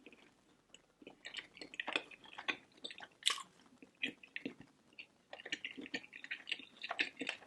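Close-miked chewing and lip smacking of a person eating barbecue food: many short, irregular clicks and smacks, starting about a second in.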